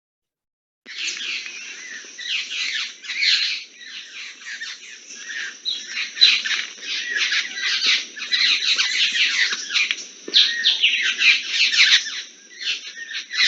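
Recorded calls of Sri Lanka orange-billed babblers: a dense, continuous chattering of sharp, quick, downward-slurred notes from several birds at once, starting about a second in.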